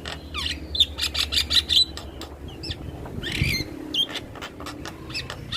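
Male Javan myna calling: a rapid jumble of sharp whistles and clicking notes, with a harsher squawk about three and a half seconds in.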